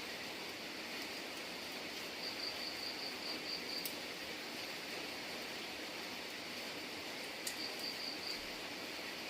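Steady rain hissing. Over it, an insect such as a cricket chirps in a high, rapidly pulsing trill that comes and goes twice, with a couple of sharp ticks.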